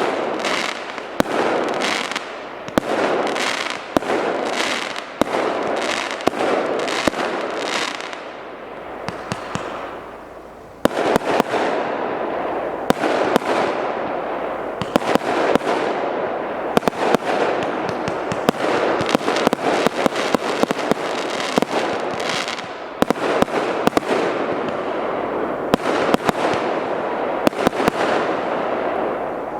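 A 200-shot, 0.8-inch firework cake firing: rapid launch thumps and aerial bursts with crackle. The shots die down about eight seconds in, then start again abruptly and loudly about eleven seconds in.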